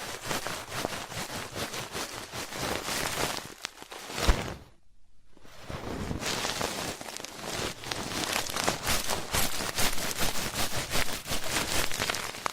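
Ear-cleaning ASMR scratching: an ear pick scraping against a microphone ear, a dense run of crackly strokes. Near the middle there is a single bump, then a pause of about a second before the scratching resumes.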